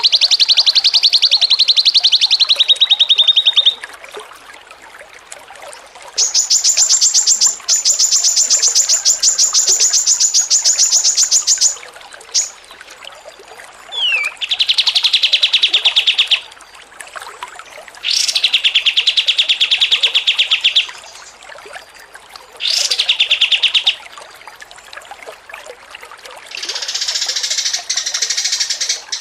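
Songbird singing rapid trills, each a fast run of evenly repeated notes lasting a few seconds. About six bouts come one after another with short pauses between them, one of them pitched noticeably higher than the rest.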